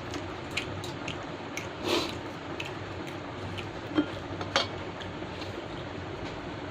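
Close-up eating sounds of toast with chicken stew: chewing and wet mouth sounds, with a few sharp clicks and a louder smack about two seconds in, over a steady low hum.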